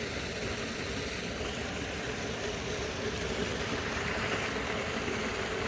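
A steady mechanical hum like an idling engine, holding one constant tone with no change in speed.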